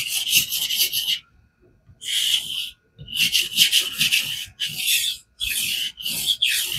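Knife edge being sharpened on a King water stone in a fixed-angle guided sharpener: runs of quick scraping strokes of stone on steel. The strokes stop for about a second shortly after the start, then resume in short runs with brief gaps.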